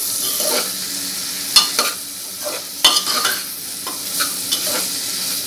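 Paneer cubes and onions frying in ghee and oil in a pressure cooker, stirred gently with a metal spoon: a steady sizzle with several sharp clinks of the spoon against the pot. The loudest clinks come about a second and a half and about three seconds in.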